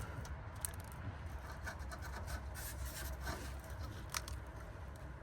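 Rubbing and scraping of metal parts and tools being worked under a car, with a couple of sharp clicks, about half a second in and about four seconds in.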